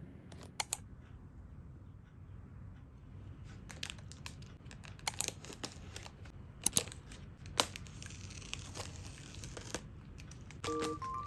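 Product packaging being handled and opened: a few sharp clicks and taps, then a couple of seconds of crinkling and tearing of the wrapping about eight seconds in. A short electronic beeping tune starts right at the end.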